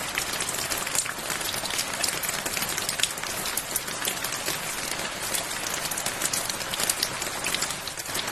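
Steady rain falling, with many sharp individual drop hits on a surface.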